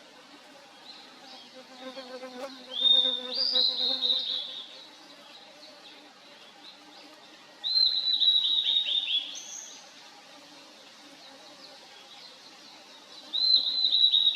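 Blue-and-white flycatcher singing: three phrases of quick, falling whistled notes, about a second and a half to two seconds each, with pauses of several seconds between them; the third starts near the end.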